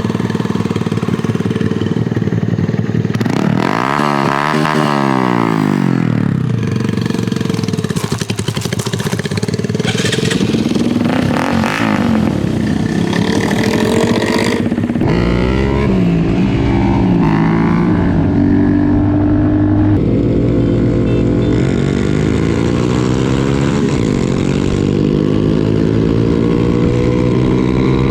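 Small single-cylinder mini motorcycles (a Honda Grom and a Grom-clone 150) racing under hard throttle. Engine pitch climbs and drops back repeatedly as they accelerate through the gears.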